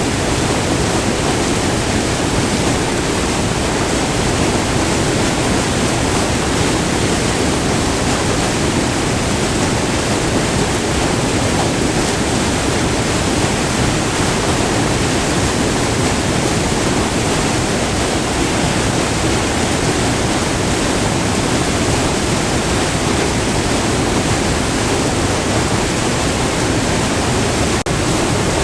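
White water rushing steadily over a short, multi-tiered waterfall, heard up close as a deep, even rush with no breaks.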